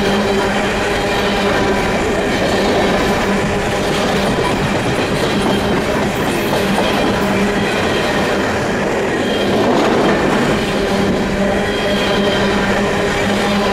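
Canadian Pacific freight train's cars rolling past close by: a steady rumble and clatter of steel wheels on the rails, over a constant low hum.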